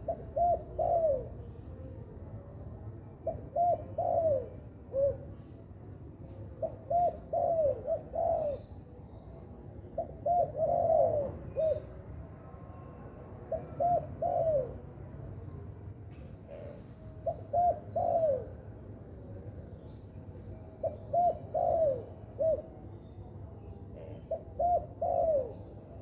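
Spotted dove (tekukur) cooing: phrases of three or four coos, the last one longer and falling in pitch, repeated about every three and a half seconds.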